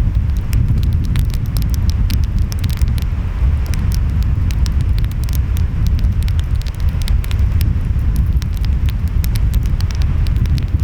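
Wood fire crackling with frequent sharp pops, over a steady low rumble of ocean waves and wind.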